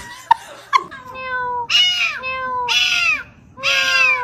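A cat meowing over and over: about four drawn-out meows, each rising then falling in pitch, roughly one a second, starting about a second in.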